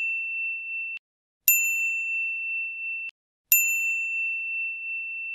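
A high, bell-like ding repeated about every two seconds; each one rings on for about a second and a half and then cuts off abruptly.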